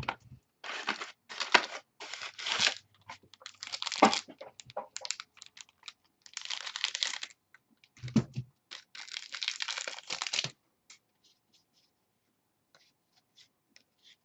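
Trading card pack wrappers being torn open and crinkled in several bursts, with a dull bump about eight seconds in. Only faint light clicks follow in the last few seconds.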